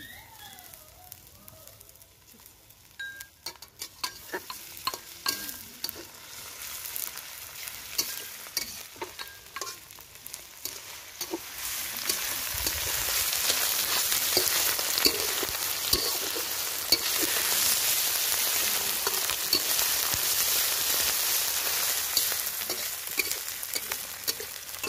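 Onions, crushed ginger and garlic frying in oil in a steel wok, stirred with a metal spatula that clicks and scrapes against the pan. The sizzle is soft at first and grows much louder about halfway through, then holds steady.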